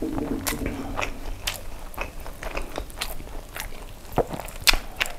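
Close-miked chewing of a mouthful of sauce-coated fried chicken and rice, with many irregular sharp mouth clicks, several a second.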